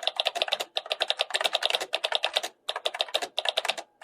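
Rapid typing on a computer keyboard: quick runs of key clicks with brief pauses between them.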